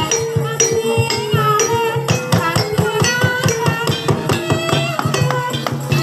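Live Javanese gamelan music accompanying an ebeg dance: struck metal keys and gongs holding ringing tones over fast, dense drum and percussion strokes, with a voice singing a wavering melody above.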